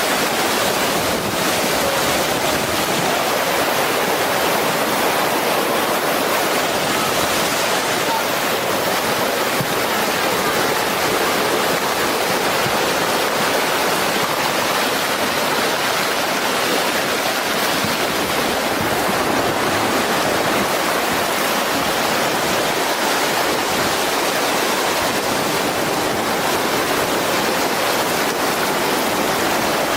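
Floodwater and mud flow rushing steadily past, a constant loud wash of water noise with no letup.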